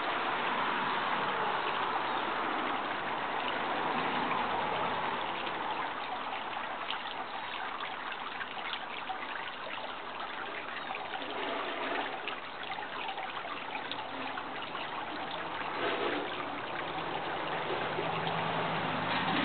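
Running water trickling steadily, like a small stream or brook.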